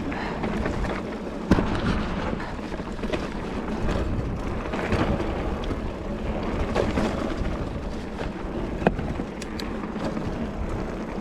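Giant Fathom hardtail mountain bike rolling fast down a dirt trail: tyre rumble and wind buffeting the microphone, with a sharp knock about a second and a half in and another near nine seconds.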